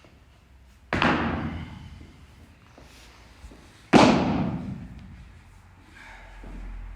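Two heavy thuds about three seconds apart, each trailing off in a long fading ring: workout weights dropped onto the gym floor.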